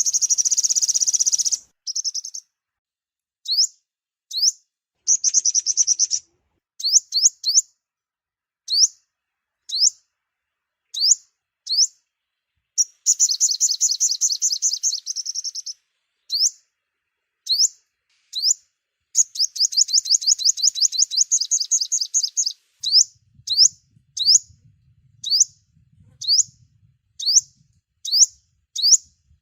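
Sunbird (the Vietnamese 'five-colour sunbird') calls played as a trapping lure: high, rapid trills lasting two to three seconds, alternating with single sharp upswept chirps repeated about once or twice a second.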